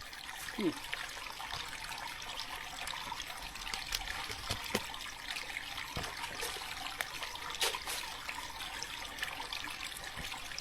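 Steady trickle of water, with scattered light clicks and taps over it.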